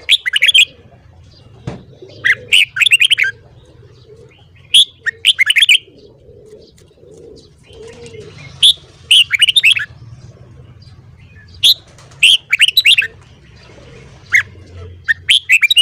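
Red-whiskered bulbul singing: short, quick phrases of whistled notes, repeated about five times a couple of seconds apart.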